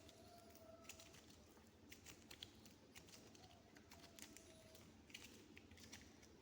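Faint, irregular small clicks and ticks of soft modelling clay being pressed and worked by fingers, a few sharper ticks among them.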